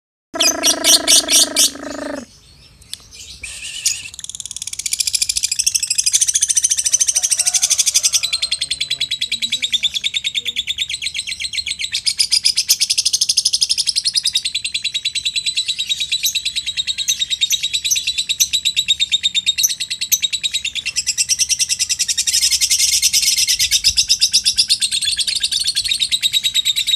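Lovebird singing its long 'ngekek' chatter: a continuous, very rapid high-pitched chattering trill held without a break for over twenty seconds. It opens with a brief loud buzzy sound in the first two seconds.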